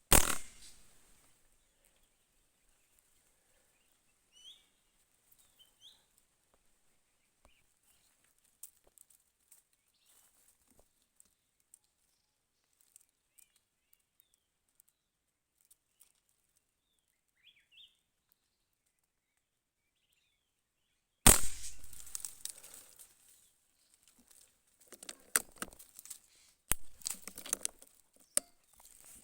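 A hunter's shot rings out at the start, a sharp crack trailing off over about a second, and a second shot follows about 21 seconds in. Between them there are faint bird chirps. After the second shot come rustling and crackling through leaves with scattered clicks.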